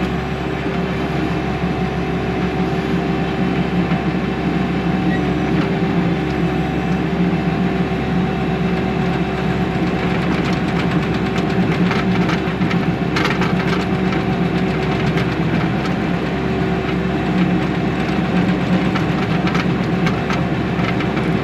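Bobcat T630 compact track loader's diesel engine running steadily at working speed. Scattered clatter and scraping come through, most of it around the middle.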